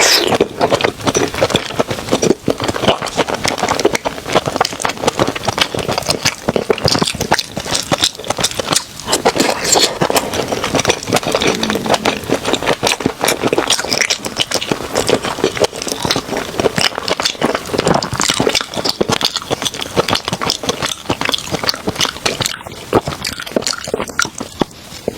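Close-miked eating sounds of a seafood mukbang: continuous wet chewing and crackling bites, a dense run of small clicks and smacks without pause.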